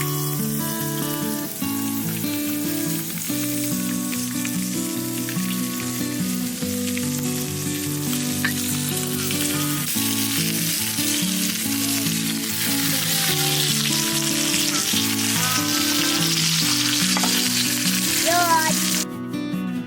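Food sizzling steadily in a hot pan, cutting off suddenly near the end, with background music underneath.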